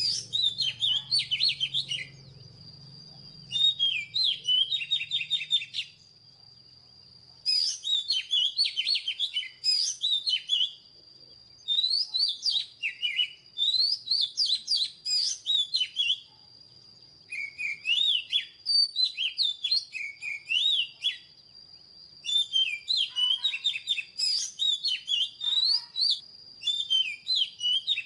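Oriental magpie-robin singing: bursts of rapid, varied whistled notes a few seconds long, separated by short pauses.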